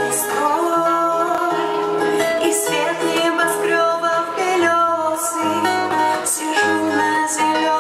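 Live band playing an instrumental passage of a song: acoustic guitar with a stepping bass line and a held melody line over it, and regular sharp high percussion strokes.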